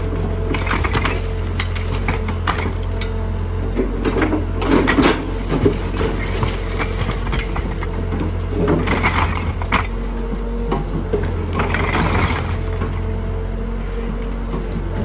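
A heavy diesel machine running steadily, with repeated bursts of crunching and cracking as building material breaks, heard about a second in, from about four to six seconds, near nine and twelve seconds, and at the end. This is the sound of a house being torn down.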